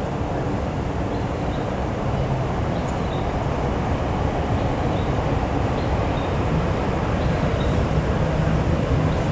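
Steady rumble of a KRL electric commuter train running along the elevated track, growing slightly louder, over a constant background of city traffic, with faint high chirps now and then.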